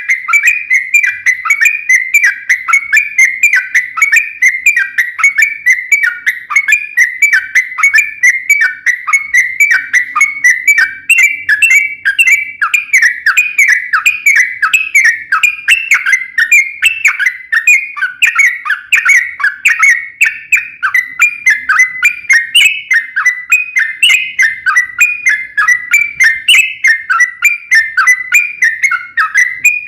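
Yellow-vented bulbul (trucuk) singing a long, unbroken run of quick whistled notes, several a second: the 'ropel panjang' song used as a lure to set other trucuk singing.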